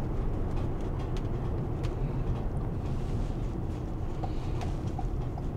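Van interior while driving: a steady low engine and road rumble. Near the end a light, regular ticking starts.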